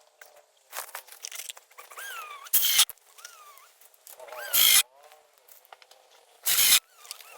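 Short, loud bursts of tool noise about two seconds apart, three of them, while rafters are being fastened on a shed roof frame, with faint high wavering calls in between.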